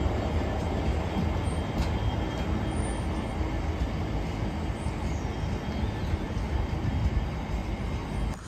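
Freight train of open box wagons rolling past behind a Class 66 diesel locomotive: a steady rumble of wheels on rail.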